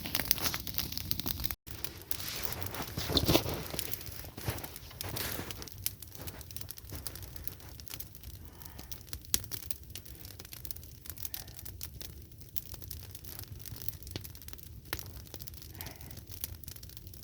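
Willow-wood campfire stacked log-cabin style, burning in full blaze with dense crackling and popping. The sound drops out for an instant about a second and a half in.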